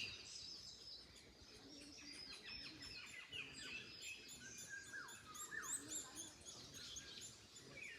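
Several small birds singing and calling together, a steady run of short chirps and quick falling whistled notes, with a faint background rush of wind in trees.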